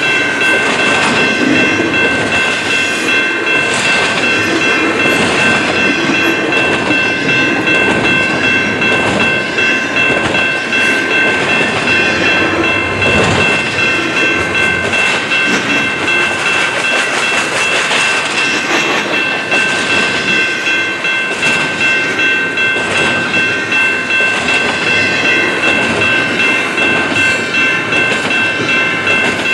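Slow-moving intermodal freight cars rolling past on the rails with a steady clickety-clack, under several steady high-pitched ringing tones that hold throughout.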